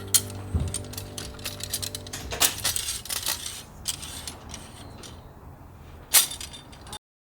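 Light metallic clinks and taps, many in quick succession, over background music that fades out about two and a half seconds in. One sharper clink comes near the end, then the sound cuts off.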